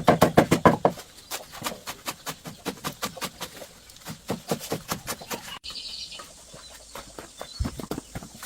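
A rapid, even series of sharp knocks, about eight a second, loud at first and then fainter for several seconds, like steady chopping or pounding. After an abrupt break comes a short high chirp, and near the end a dull thump.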